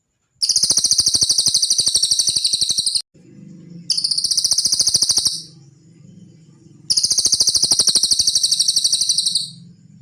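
Cililin bird song: three long, high, rapidly pulsed trills, each a second and a half to nearly three seconds long, separated by short pauses. A faint low hum runs underneath.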